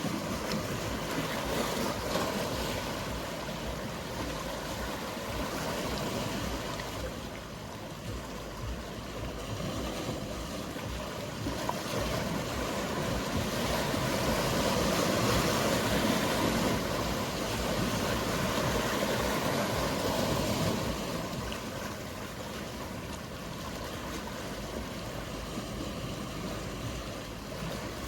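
Sea waves washing steadily, swelling louder for several seconds around the middle, with a faint low hum of boat engines underneath.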